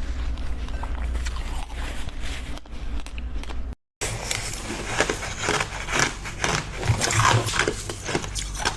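Close-miked eating sounds: biting and chewing on jelly and frozen treats, with wet clicks and crunches. A short silent break comes about four seconds in, followed by a quicker run of sharp bites.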